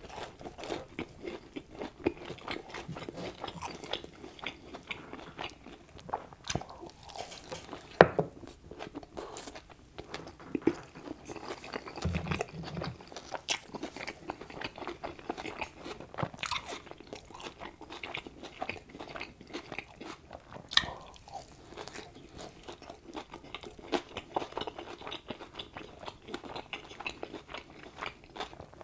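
Close-miked mouth sounds of a person biting and chewing a cheeseburger: a steady run of wet smacks and soft crunches, with a few sharper clicks, the loudest about 8 seconds in.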